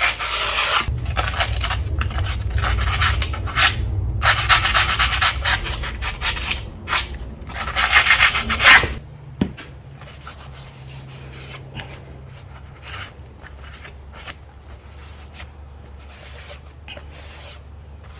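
Rough scrubbing strokes on the metal mating surface of the car's rear wheel hub, cleaning it off before the wheel is refitted. The strokes are loud for about nine seconds, then give way to quieter, scattered scratching over a low steady hum.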